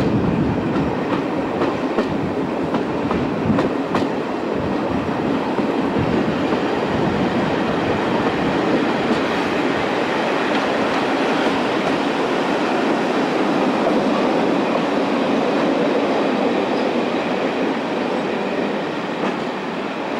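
Passenger carriage of a diesel-hauled train running along the track, heard through an open carriage window: a steady rumble of wheels on rail with a few sharp clicks from rail joints in the first seconds, easing slightly near the end.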